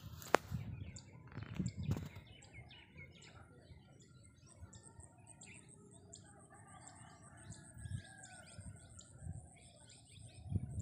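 Small birds chirping and twittering in many short, scattered calls, with a few low bumps from wind or handling on the microphone.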